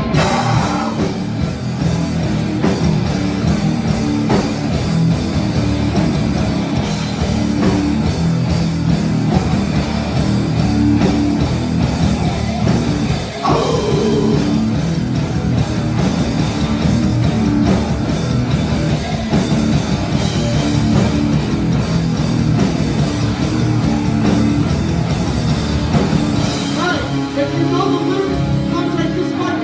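Live hardcore punk band playing loud, with distorted guitar, bass and drums and vocals over them.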